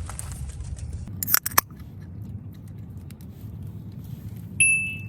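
Handling noise: a short rustle, two sharp clicks in quick succession about a second and a half in, then a brief high ringing ping near the end that fades quickly, over a steady low hum.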